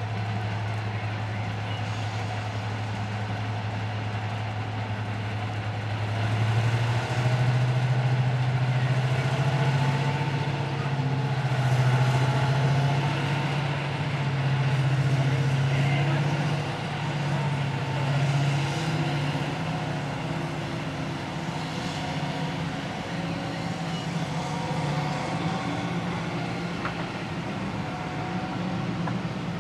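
Diesel locomotive engine running with a steady low drone. About seven seconds in its pitch steps up and stays higher, wavering as the engine is worked harder.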